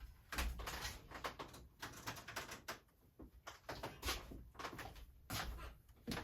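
Rummaging among tools and craft supplies to find a screwdriver: an irregular run of small clicks and knocks of objects being moved, with some rustling.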